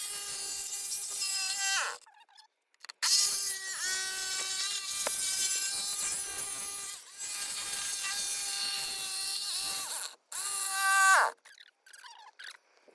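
An electric power tool cutting into the box-truck wall for the water heater opening, run in three bursts: about two seconds, then a long run of about seven seconds after a short pause, then a brief burst near the end. Each time, its steady motor whine falls in pitch as the trigger is released.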